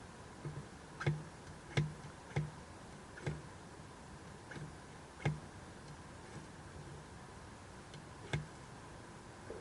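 Wood fire crackling, with irregular sharp pops of the burning wood.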